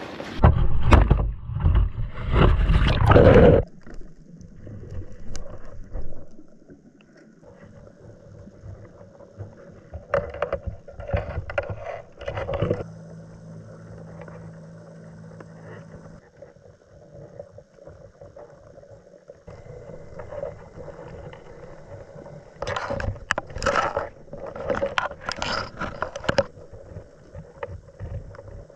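Kayak on the water: paddle strokes splashing and water sloshing against the hull in bursts, with a loud stretch of noise near the start and quieter drifting in between.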